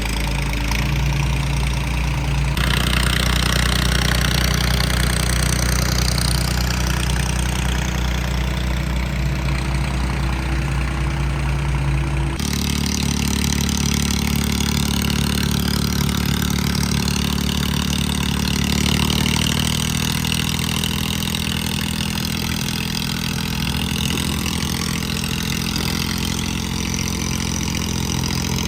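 Diesel tractor engines running steadily. The engine note changes abruptly about two and a half seconds in and again about twelve seconds in.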